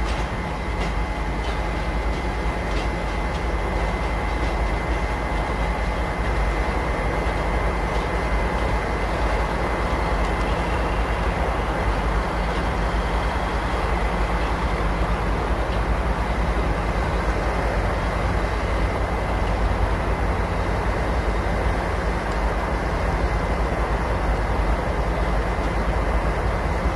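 A pair of Class 37 diesel locomotives hauling a freight train of wagons at low speed, with the engines and rolling wagons making a steady rumble. There are a few sharp wheel clicks over rail joints in the first three seconds.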